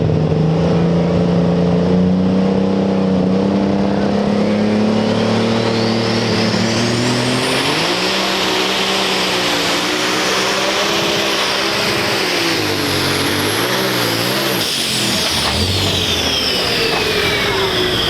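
Pulling tractor's turbocharged diesel engine running hard under load. A high turbo whine climbs steeply over a few seconds, holds at a scream, then falls away near the end as the engine comes off throttle. The engine's pitch wavers up and down through the middle of the pull.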